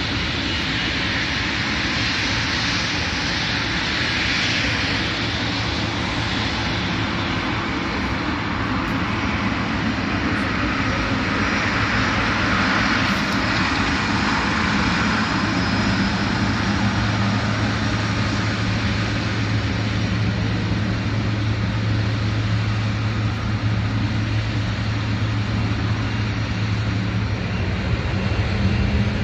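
Airliner engine noise, a continuous steady rush with a low hum that grows stronger from about halfway through.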